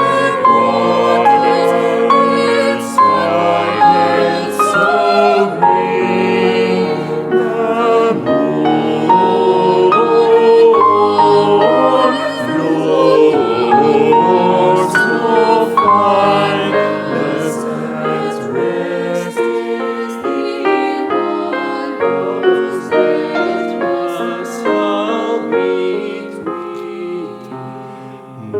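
Vocal ensemble singing in several parts, moving through held chords; the singing grows softer near the end.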